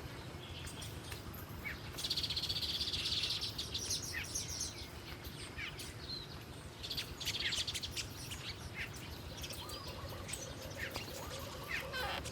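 Wild birds chirping and calling, with a dry buzzy trill about two seconds in and another about seven seconds in.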